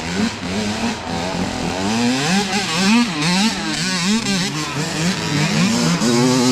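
Several youth dirt bike engines revving past together, their pitch climbing and dropping again and again as the riders work the throttle and shift gears.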